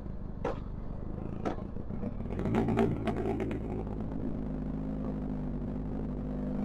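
Benelli TRK 502X parallel-twin running through an Arrow exhaust with the dB killer removed, popping on the overrun. There is a single crack about half a second in and another a second later, then a rapid burst of crackles, before the engine settles to a steady idle.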